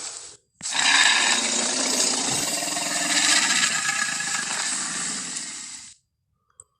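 Male Tyrannosaurus rex roar film sound effect: the end of one roar fades out, then after a short gap a single long roar of about five seconds that tails off near the end.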